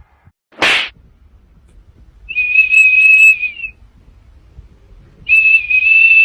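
Two long, steady high-pitched whistles, each lasting about a second and a half, a few seconds apart. A short hissy burst comes just before them, near the start.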